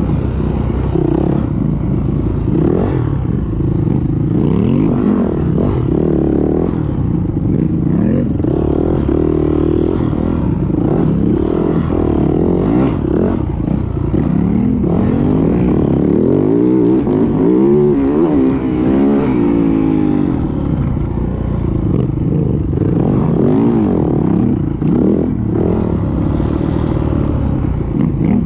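450 cc single-cylinder four-stroke dirt bike engine at full riding pace, its pitch rising and falling over and over as the throttle opens and closes through corners and gear changes, with some clatter mixed in.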